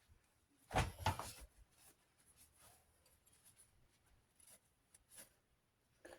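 Two sharp knocks about a second in, then faint scattered taps and rubbing as small metal fan parts are handled and cleaned.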